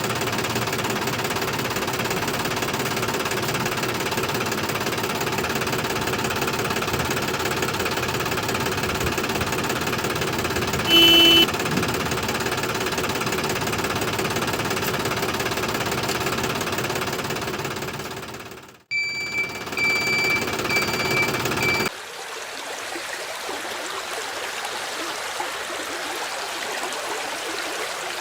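A mini tractor's steady, knocking engine-like running sound, with a short high tone about eleven seconds in. After a sudden cut near the end, steady flowing water takes over.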